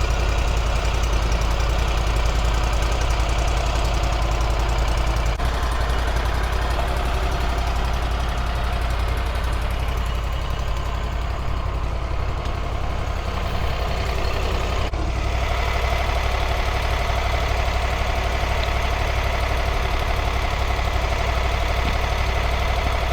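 Stump grinder's 27.5-horsepower air-cooled V-twin engine running loud and steady, its tone shifting slightly about five seconds in and again about fifteen seconds in.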